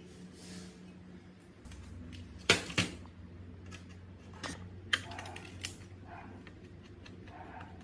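A few sharp clicks and knocks of small hard parts being handled. The two loudest come close together about two and a half seconds in, with fainter clicks after them, over a faint steady low hum.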